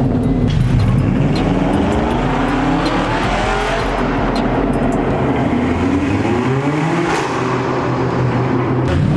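Straight-piped Audi S5's 4.2 V8 accelerating hard: the loud exhaust note rises in pitch through one gear, drops at a shift about four seconds in, and rises again before easing back to a lower steady note about seven seconds in.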